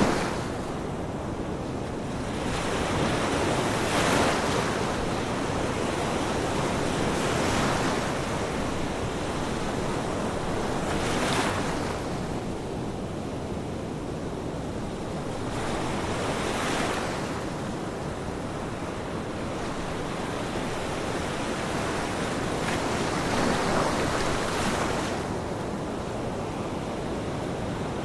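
Ocean waves breaking on a shore, a steady wash of surf with a swell of sound every few seconds as each wave comes in.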